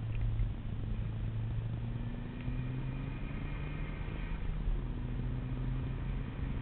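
Tommykaira Nissan Skyline engine heard from inside the cabin, pulling under load. Its pitch climbs slowly, then drops about halfway through at a gear change, over a steady haze of road and wind noise.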